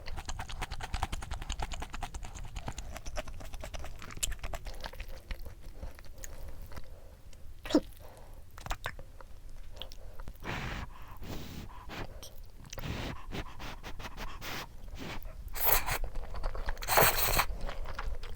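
Close-miked chewing of crunchy food: a steady run of small crunches, with a few louder crunching bites in the second half.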